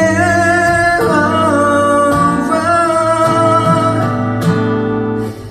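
A live pop song: a voice singing a long, wavering held line over acoustic guitar. Near the end the music breaks off into a short pause.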